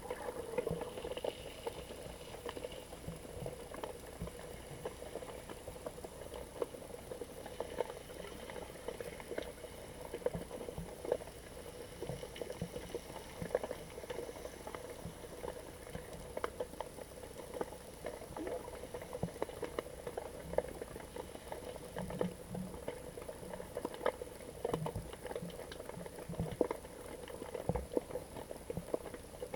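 Underwater sound picked up by a GoPro inside its waterproof housing: a steady, muffled hum with a dense, irregular crackle of small clicks and pops from the moving water.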